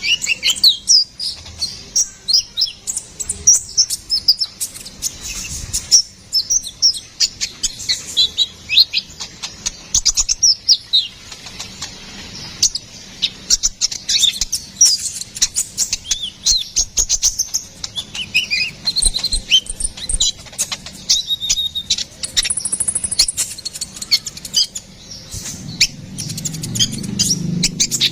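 Sunbird (the 'kolibri ninja' kept by Indonesian songbird keepers) singing in a long run of rapid, high-pitched chirps and twitters. A low rumble comes in near the end.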